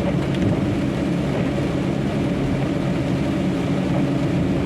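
Truck's diesel engine running steadily at cruising speed, heard from inside the cab, over a continuous hiss of wet-road and rain noise.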